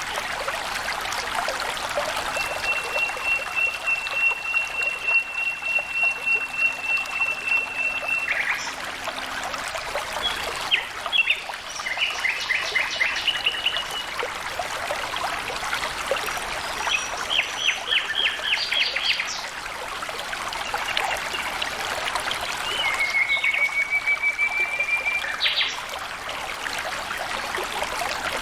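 Water flowing and splashing in a small stream, an even rushing that flickers constantly. Birds call over it: one long steady whistled note held for about six seconds early on, two quick rattling trills in the middle, and a slowly rising whistle near the end.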